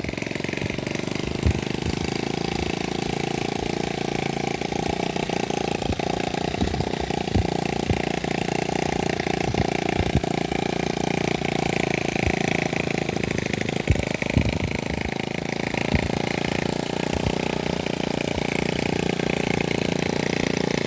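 A small vehicle's engine running steadily with a fast, even beat, with a few louder knocks.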